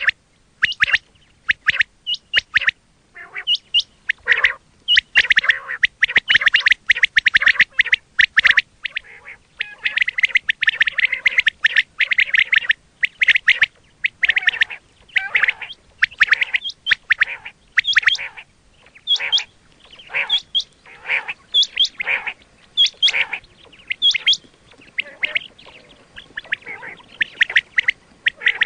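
Quail calling over and over in rapid, short, sharp notes, densest in the first half and in looser groups later. It is a recorded quail call of the kind played to draw quail in for hunting.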